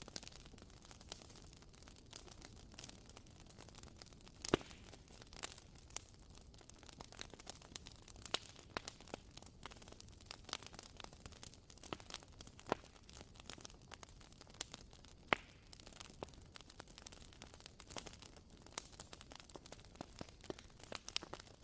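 Wooden-wick candle crackling: irregular small pops and snaps like a tiny campfire, with a louder snap about four and a half seconds in and another around fifteen seconds.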